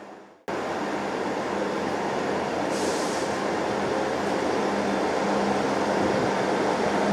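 Diesel multiple-unit train running at the platform, a steady engine hum with train noise that grows slowly louder, starting abruptly about half a second in. A short air hiss sounds about three seconds in.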